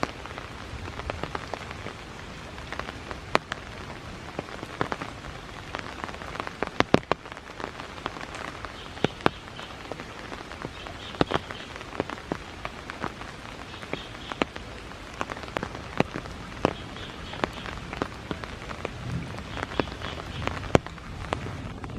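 Rain falling steadily, with many sharp, irregular drops striking close to the microphone.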